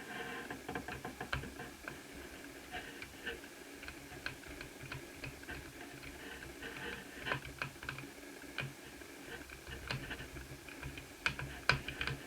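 Light, irregular clicks and taps from laptop parts being handled, with a few sharper clicks near the end.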